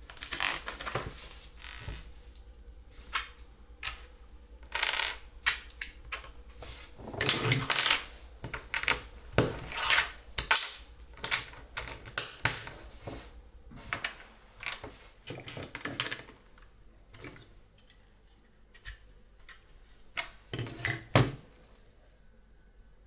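Small plastic LEGO pieces clicking and clattering as they are handled, picked out of loose parts and pressed together. Busy for most of the time, thinning out near the end, with a couple of sharper clicks.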